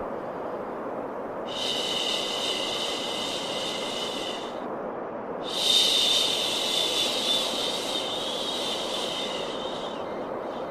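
Steady white noise with long 'shhh' shushing sounds laid over it: one from about a second and a half in lasting about three seconds, and a louder one from about five and a half seconds in lasting about four seconds.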